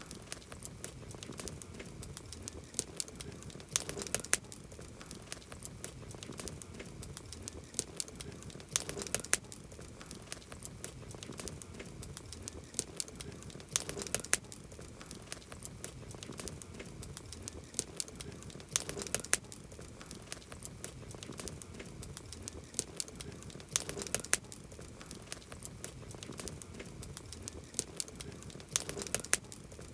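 Campfire burning, the wood crackling steadily with small snaps, and a cluster of louder pops about every five seconds.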